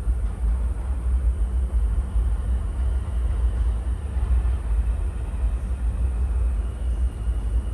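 Low, steady rumble of an NYC subway station with an R160 G train nearby, with a faint thin high tone coming in near the end.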